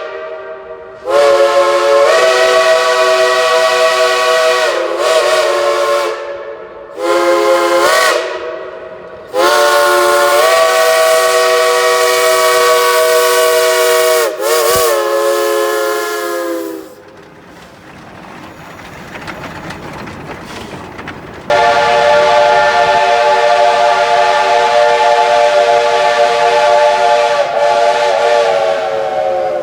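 Steam locomotive whistle blowing a series of blasts, several notes sounding together: a long blast, a short one, a long one, then after a pause of hissing steam another long blast. The pitch wavers as each blast is shut off.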